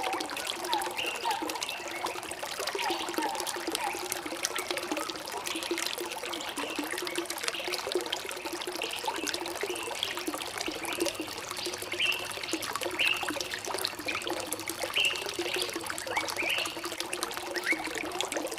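Running water flowing steadily, with birds giving many short chirps over it.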